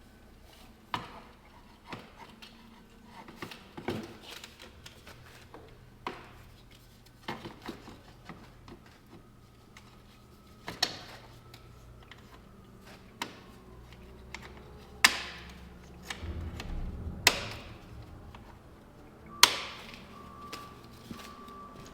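Scattered sharp clanks and knocks of hand work on a skid steer, with covers, latches and tools being handled. The three loudest come in the second half. A faint low hum runs underneath.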